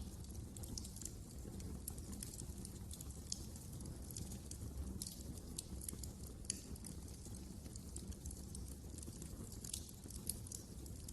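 Wood fire crackling in a fireplace: frequent irregular sharp pops and snaps over a low steady rumble of the burning logs, with a louder pop about six and a half seconds in.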